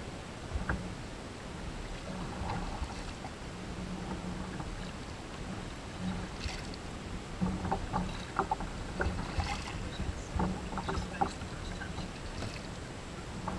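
Kayak paddling: water splashing off the paddle blades, with a run of light sharp knocks from about seven seconds in, over a steady low background noise.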